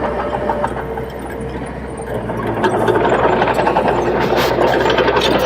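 Bulldozer's diesel engine running with a clattering rattle, growing louder about three seconds in as the machine works harder.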